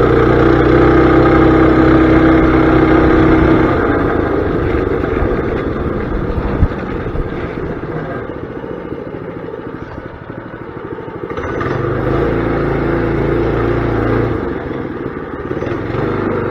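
Mini bike engine running under throttle. It holds steady for about four seconds, then drops back and runs unevenly, and picks up again for a few seconds later on.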